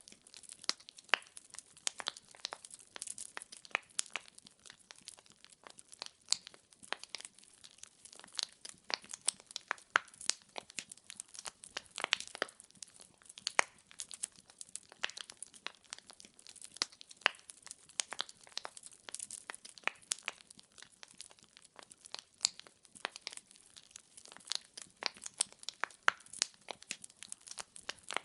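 Wood fire crackling steadily, with many irregular sharp pops and snaps from burning logs over a faint hiss.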